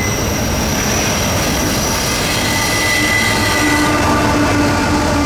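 Norfolk Southern freight train rolling past, its wheels squealing in thin high steady tones over the rumble of the cars. About three and a half seconds in, a lower steady tone with several overtones comes in.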